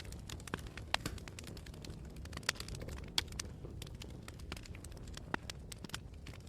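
Wood campfire burning, with irregular sharp crackles and pops over a steady low rumble of flames and wind.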